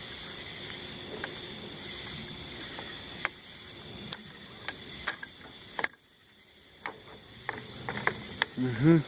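Crickets chirping steadily in a high, even drone, with scattered sharp clicks and knocks over it.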